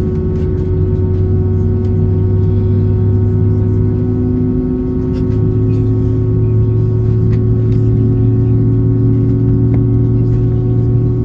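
Inside the cabin of an Airbus A320-232, its IAE V2500 engines run with a steady hum and several fixed tones. The lowest hum rises slightly in pitch about halfway through.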